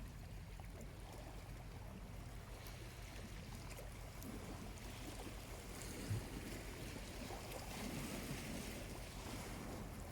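Small waves washing gently onto a calm beach, the wash swelling from about four seconds in, with a single soft knock just after the middle.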